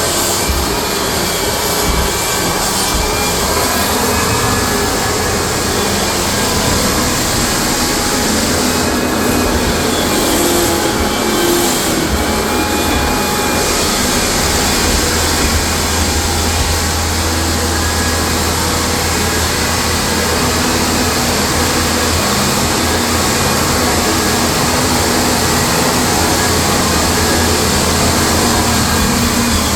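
Floor sander running steadily across hardwood flooring, a loud even machine noise of motor and abrasive. This is the first, coarse-grit (50–60 grit) sanding pass that strips the old surface.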